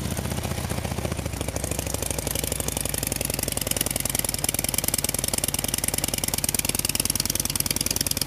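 Harley-Davidson Road King's V-twin engine idling steadily through newly fitted B&E Superflow straight-through mufflers, a steady fast-pulsing exhaust note.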